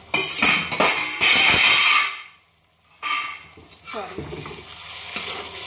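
Onion-tomato masala sizzling loudly in a hot iron kadhai as the lid comes off, a hissing burst of frying and steam. The sound cuts out for about a second near the middle, then returns as a quieter steady sizzle with a spatula stirring through the masala.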